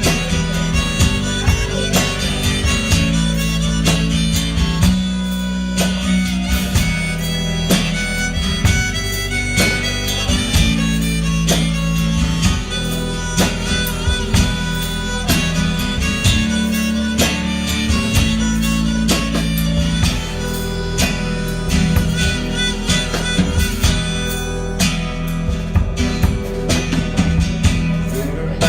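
Live band playing an instrumental break in a country-blues song: a harmonica takes the lead over strummed guitar and a steady bass line.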